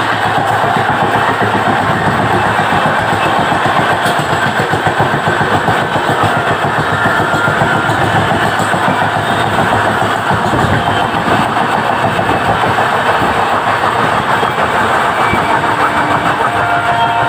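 Two passenger trains running side by side at speed, heard from the open doorway of an ICF coach with an LHB express's coaches on the next track: a loud, steady, dense rattle of wheels on rails and coach fittings.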